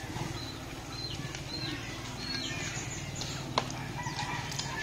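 Birds chirping: a few short, high chirps in the first half, over a steady low hum, with one sharp click about three and a half seconds in.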